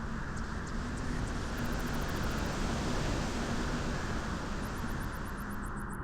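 Beach wind blowing, a steady rush that swells into a gust through the middle and eases off near the end.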